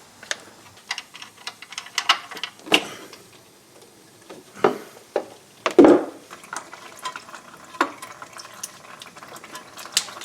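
Scattered metallic clinks and knocks from hand work on the engine, the loudest about six seconds in, over a faint trickle of liquid: engine oil running from the removed oil filter mount.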